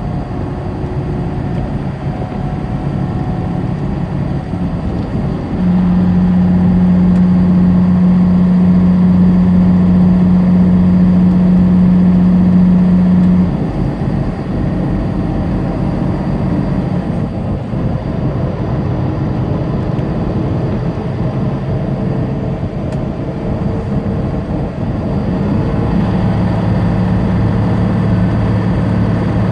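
Semi-truck engine and road noise inside the cab. The engine note steps up about six seconds in, holds steady for about eight seconds, cuts back suddenly, and rises again near the end.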